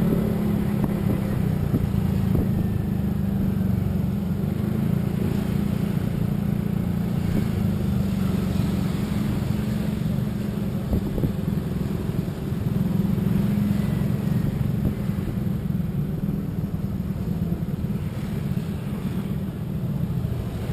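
Motor vehicle on the move: a steady low engine drone under continuous road and wind noise.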